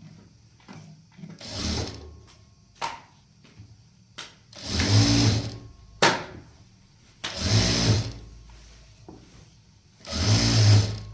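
Electric sewing machine running in four short bursts of about a second each, the first one weaker, with sharp clicks between the bursts.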